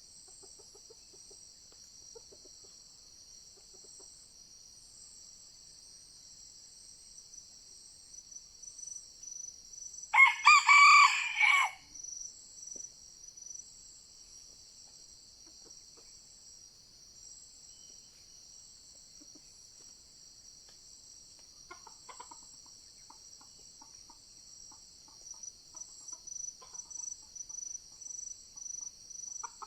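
Red junglefowl rooster crowing once, a short loud crow about ten seconds in, with soft, quick clucking notes later on. Insects drone steadily and high-pitched throughout.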